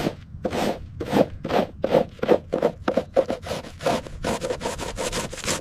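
Rapid back-and-forth scraping strokes against a hard surface, about three a second.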